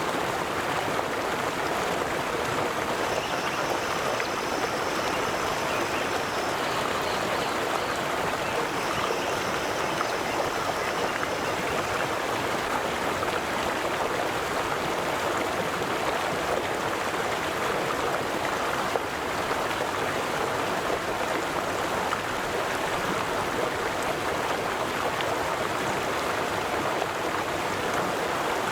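River water flowing steadily, an even rushing and burbling that does not let up. Twice in the first half, a faint thin high tone sits above the water for a few seconds.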